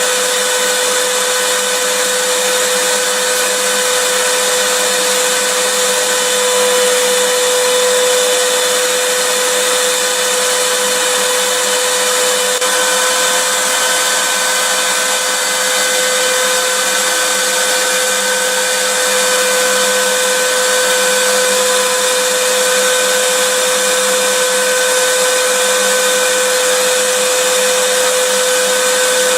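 Vacuum cleaner motor running steadily, a constant whooshing noise with a steady whine on top, used as white noise.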